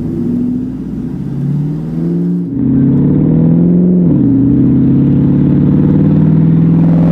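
Devel Sixteen hypercar's engine accelerating hard, pitch climbing and getting louder, then dropping at an upshift about four seconds in and holding a steady note.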